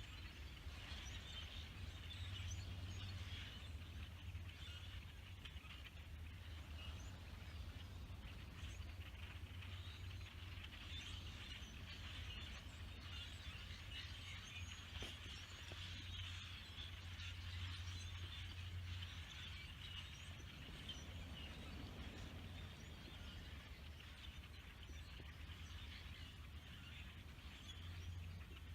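A large flock of blackbirds calling all at once, a dense continuous chatter of many overlapping chirps, over a steady low hum.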